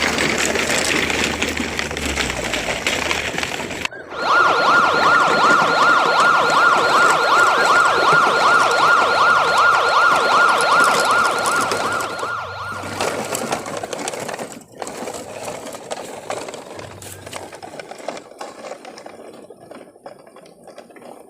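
Electronic police siren warbling rapidly up and down, starting about four seconds in and cutting off after about eight seconds. Softer scraping noise comes before and after it.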